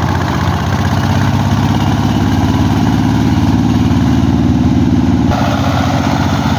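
Single-cylinder diesel engine of a four-wheeled công nông farm vehicle running steadily, its note shifting slightly about five seconds in.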